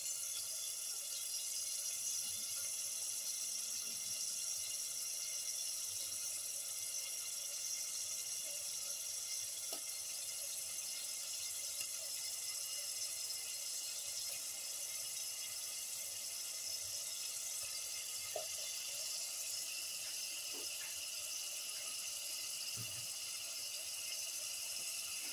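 Seerfish pieces cooking in hot oil and masala in the pan: a soft, even sizzling hiss with a few faint ticks.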